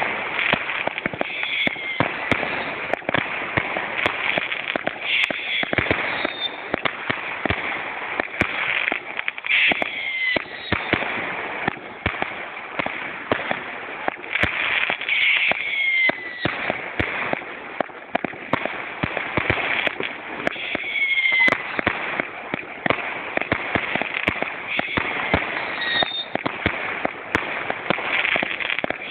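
Fireworks going off continuously: dense crackling and bangs, with a short falling tone every few seconds.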